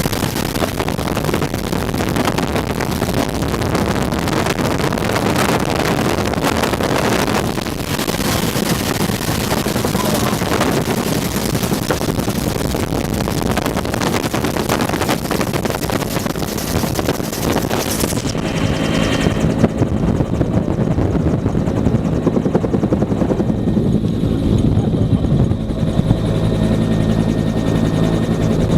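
Bell UH-1 Huey helicopter in flight, its turbine and rotor running as a loud, steady drone under a heavy rush of wind on the microphone. About two-thirds of the way in, the hissing wind noise drops away and the engine's steady low hum comes through more clearly.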